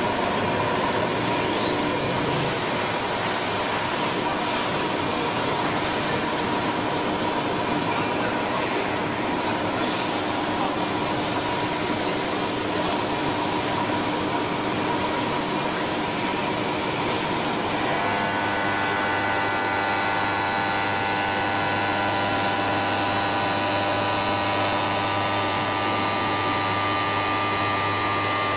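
CNC stone router's spindle whining up to speed about two seconds in, then running steadily over constant machine noise. About 18 seconds in the sound changes, with a deeper hum and more tones joining.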